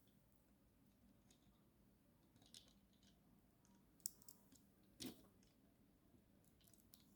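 Near silence broken by a few faint clicks, with a sharper click about four seconds in and a soft knock about five seconds in.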